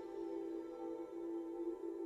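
Soft ambient new-age background music of sustained, drone-like tones.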